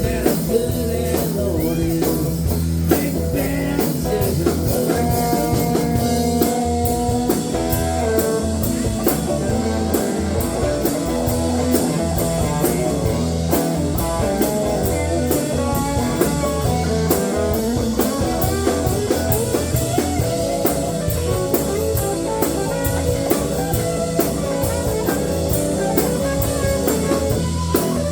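Rock band playing an instrumental blues-rock passage: a guitar plays a lead line with held and bent notes over bass and a drum kit keeping a steady beat.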